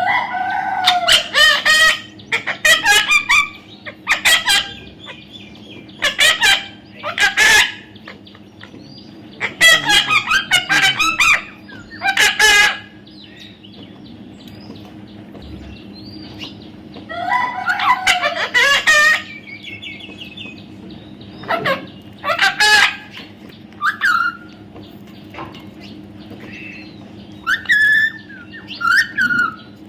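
Young parrot calling: loud, repeated calls in short bursts with pauses of a second or more between them, turning to shorter, thinner chirps near the end.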